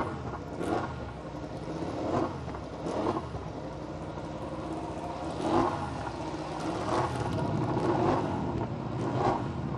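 Ducati Desmosedici GP25 MotoGP race bikes' V4 engines being revved in short blips, roughly one a second, idling between the blips.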